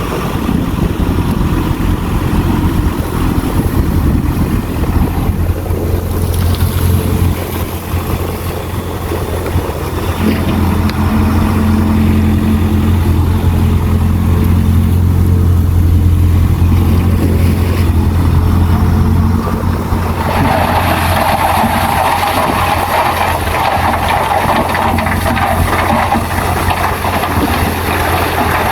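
Bulldozer's diesel engine running steadily with a deep drone. About twenty seconds in, a loud rushing noise joins it.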